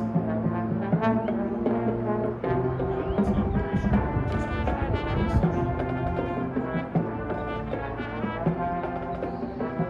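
A high school marching band playing its field show: the brass section sustains shifting chords, punctuated by drum hits.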